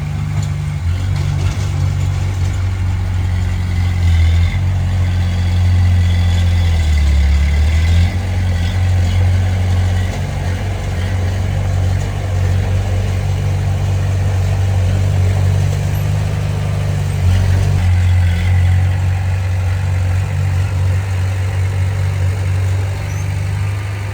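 Heavy diesel engine of earthmoving machinery, a bulldozer or dump truck, running steadily under varying load. The low engine drone shifts in pitch and loudness several times as the load changes.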